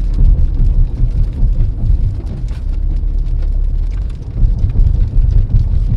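Road noise inside a car driving in the rain: a loud, steady low rumble with many scattered ticks of raindrops hitting the car.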